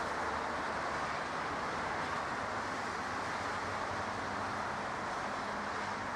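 Jet airliner engines running, a steady rushing noise, with a faint low hum joining about four seconds in.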